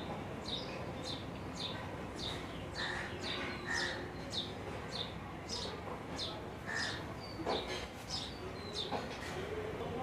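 A small bird calling over and over: short, high notes that drop in pitch, about two a second, with a few lower whistled notes mixed in.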